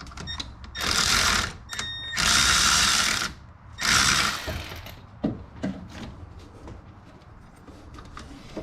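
Ratchet wrench clicking in three quick bursts as it turns the belt adjuster to tension the drive belt, then a few light clicks of the tool.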